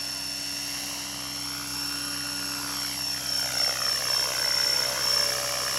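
Align T-REX 600E electric RC helicopter in flight: a steady high-pitched motor whine over the hum of the rotor blades. About halfway through it gets a little louder and the tone wavers as the helicopter moves.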